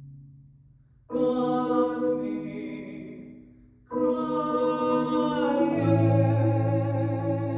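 Mallet-percussion music: a chord struck about a second in rings and fades, then a second chord struck about four seconds in rings on, with a deeper bass note joining near the end.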